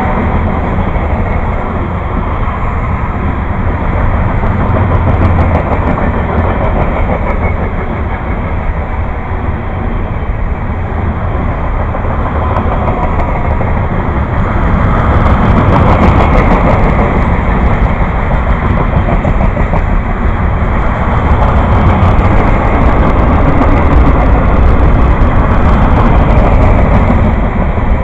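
Train rolling past, its wheels on the rails making a loud, steady rumble that swells somewhat about halfway through.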